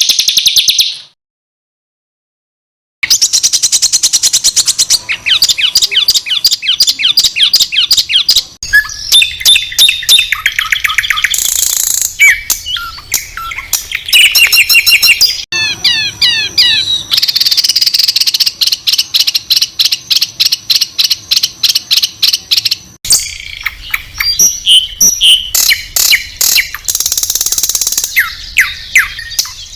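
Songbird song of the kind used to train competition birds: fast runs of loud, high-pitched, harsh repeated notes ('shots'), trills and sweeping whistles. Near the start the song stops for about two seconds of silence.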